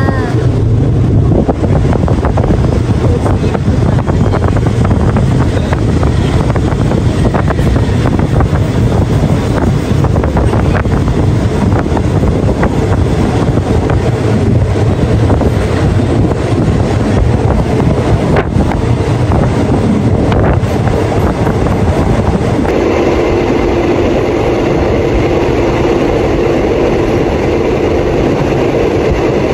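Passenger train running at speed: steady rumble of wheels on rail with wind through the open window. About 23 seconds in the sound switches to the steadier noise inside the carriage, with a steady hum.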